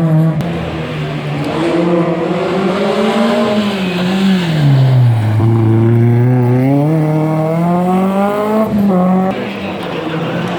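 Historic rally car's engine at high revs, its pitch falling as the car slows to about halfway, then climbing steadily again as it accelerates away, with a brief break near the end.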